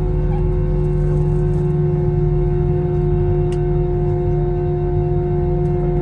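Airbus A321 jet engines running steadily, heard inside the passenger cabin as a low rumble with several steady humming tones that hold their pitch, with no spool-up.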